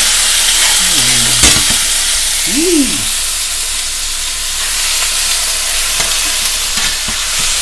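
Diced chicken sizzling in hot oil in a skillet while it is stirred with tongs, a steady frying hiss. A single sharp knock about one and a half seconds in.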